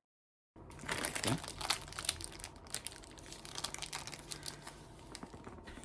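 Thin plastic foot-peel booties crinkling and rustling as they are handled on the feet, in irregular small crackles starting about half a second in.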